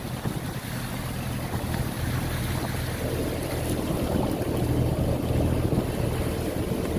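A passenger motorboat's engine running with a steady low hum, mixed with the rush of water and waves against the boat.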